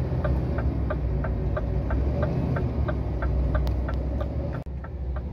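Scania truck's diesel engine pulling hard at low speed up an icy climb, heard from inside the cab, with a steady clicking about three times a second. The engine sound dips briefly near the end.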